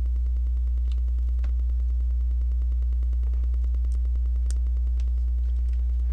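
Steady low electrical hum, the loudest sound throughout, with a few faint clicks of plastic LEGO pieces being handled and pressed together.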